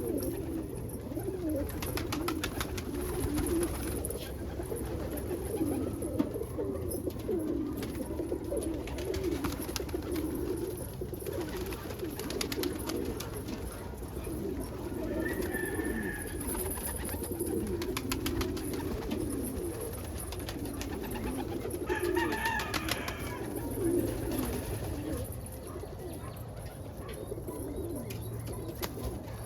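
Loft pigeons cooing continuously, many birds overlapping, with scattered light clicks.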